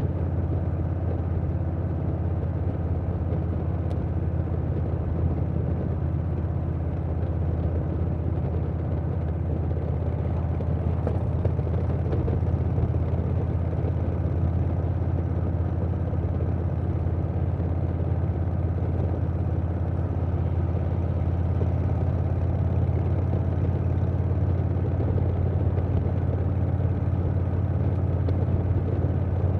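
2020 Harley-Davidson Softail Standard's Milwaukee-Eight 107 V-twin running steadily through a Vance & Hines Big Radius 2-2 exhaust.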